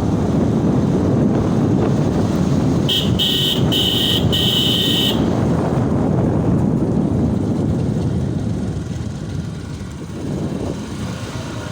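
Motorcycle riding along a road: steady engine and wind rumble, easing off slightly near the end. About three seconds in, a horn gives three short beeps.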